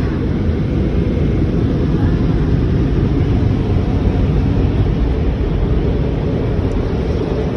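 Car wash air-dryer blowers blowing over the car, a steady, loud rush of air heard from inside the cabin.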